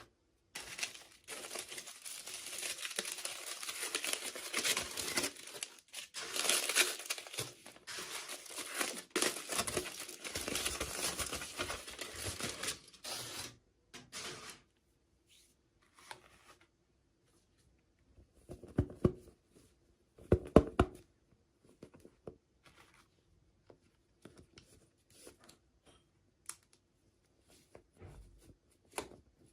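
Toy packaging being torn open and crinkled by hand for about thirteen seconds. Then come scattered light clicks and handling taps, with two louder knocks a little past the middle.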